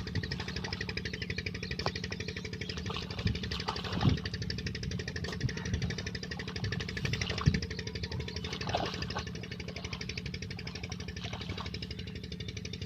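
Petter diesel engine running steadily with a fast, even beat, driving a tube-well pump. A few brief knocks stand out over it.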